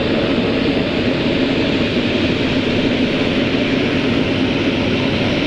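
Twin Pratt & Whitney Canada PT6A-67R turboprops of a Basler BT-67 turbine DC-3 running steadily on the ground: a loud, even rush with a low drone underneath.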